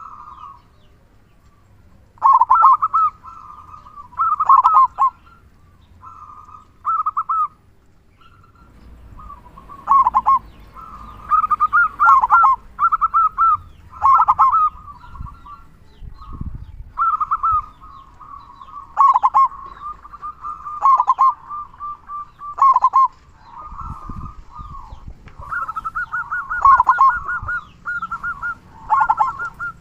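Male zebra dove (perkutut) singing: short, rapid, rhythmic cooing phrases repeated every second or two, sometimes running into each other.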